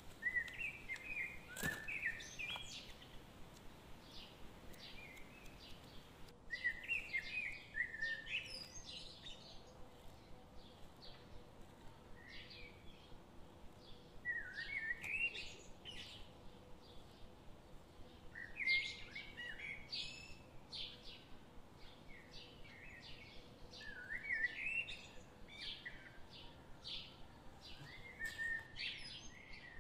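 Small birds chirping: a short run of quick chirps every few seconds, with single light chirps in between.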